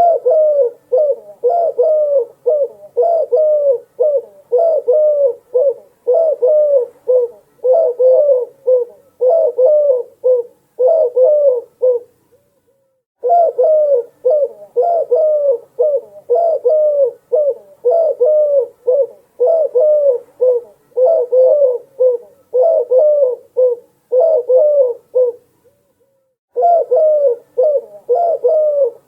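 Dove cooing: short, repeated coos at about two a second, in long runs broken by two brief pauses, one about twelve seconds in and one near twenty-five seconds.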